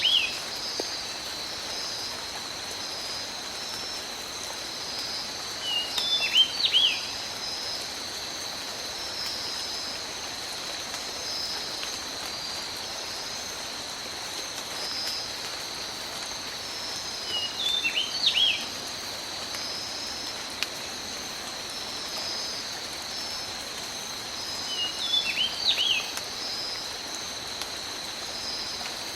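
Steady tropical rain falling, over a constant high-pitched tone. A bird calls in short clusters of chirps four times: right at the start, and about 6, 18 and 25 seconds in.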